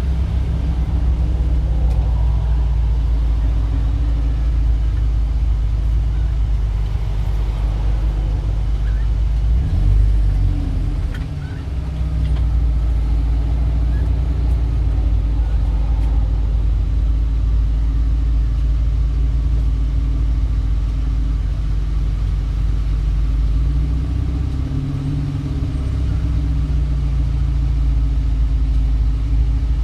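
Street traffic: the steady low rumble of car engines, with a brief lull about eleven seconds in.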